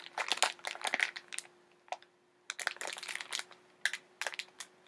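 Packaging being handled while accessories are taken out of a box: crinkling and rustling in three short spells, with brief pauses between them.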